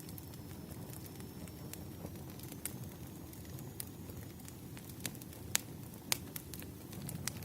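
Campfire crackling: a steady low rush of burning wood with sharp pops and snaps every second or so, the loudest two about five and a half and six seconds in.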